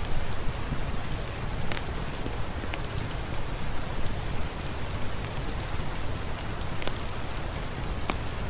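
Steady rain falling, a continuous even hiss with scattered sharp pops and clicks.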